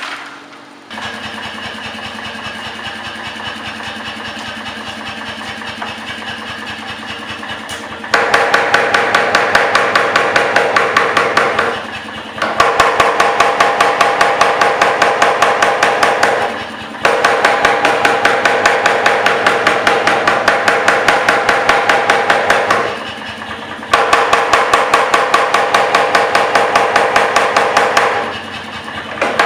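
Mechanical power hammer at the forge: it first runs steadily, then strikes hot steel in four long runs of rapid, evenly spaced blows with a metallic ring, with short pauses between the runs.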